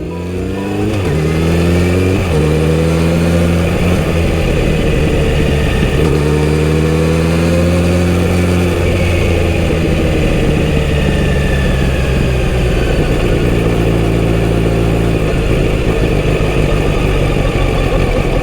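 Kawasaki Z900RS inline-four engine through its full-system exhaust, ridden through the gears. The revs climb and drop sharply with each upshift, three times in the first nine seconds or so, and then it cruises at a steadier pitch.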